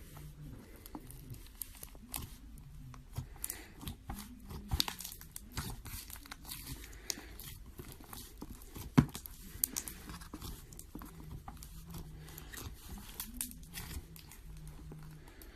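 Failed slime being squeezed and pulled apart by hand, giving irregular sticky crackles and pops, with one sharper pop about nine seconds in.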